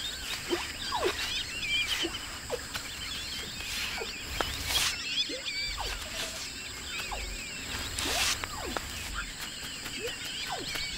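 Marshland wildlife chorus: many high chirps and twitters with repeated short falling calls. Two brief rushes of noise come near five and eight seconds in.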